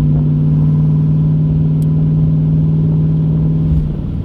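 C3 Corvette's V8 engine droning steadily while the car is driven, heard from inside the car; the drone drops away near the end.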